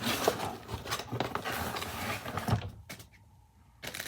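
Packaging being rustled and scraped while a stuck computer mouse is worked out of its box. The scraping stops about two and a half seconds in, followed by a few short knocks near the end.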